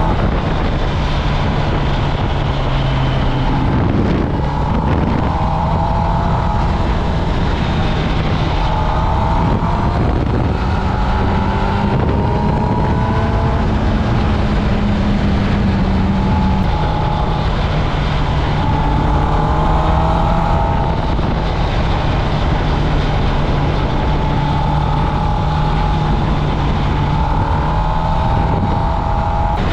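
Kawasaki Ninja ZX-10R's inline-four engine running on its stock exhaust while riding. The engine note rises again and again as the bike pulls through the revs, with wind rushing over the microphone.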